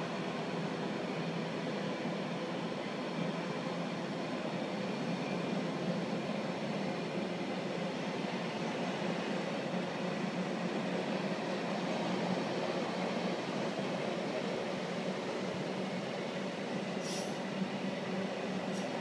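Container freight train rolling past, a steady rumble and hiss of its wagons' wheels on the rails, with a short high squeak near the end.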